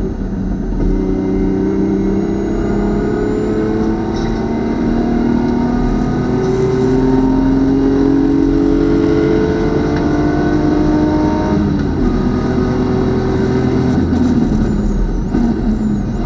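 BMW race car's engine under hard acceleration, its note climbing steadily through a gear change. About twelve seconds in the driver lifts off and the note drops suddenly, then it steps down again near the end as the car brakes and downshifts.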